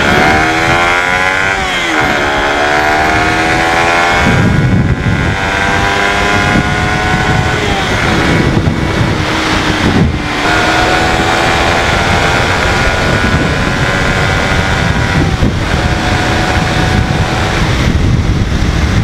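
Suzuki Raider 150 FI single-cylinder engine pulling hard through the gears. Its pitch climbs and drops sharply at each shift, then holds steadier. Wind rushes over the microphone throughout.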